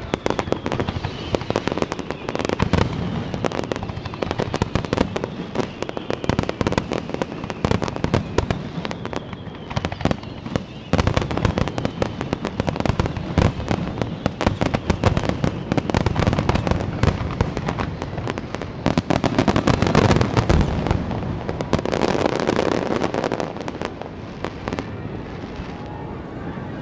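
Large aerial fireworks display: a dense, continuous barrage of shell bursts, bangs and crackle following one another with hardly a gap, easing off a little near the end.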